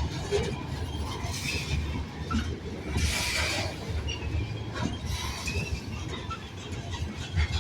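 Freight train rolling past: a steady rumble of railcar wheels on the rails with irregular clanks and knocks, and a brief burst of hiss about three seconds in.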